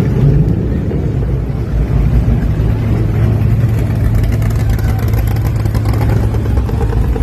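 A car engine idling steadily, its sound a low, even rumble.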